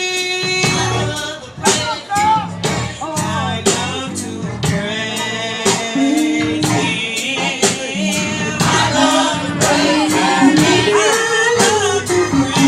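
Live gospel music: a male voice singing over a band, with drums keeping a steady beat of about two hits a second.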